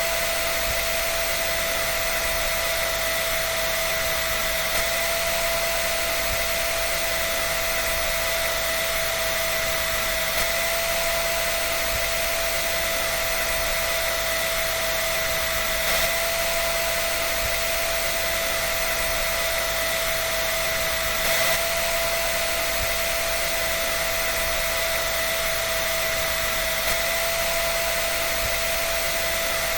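Dryer running steadily: an even rush of air with a constant high whine and no tumbling rhythm, with a couple of faint ticks.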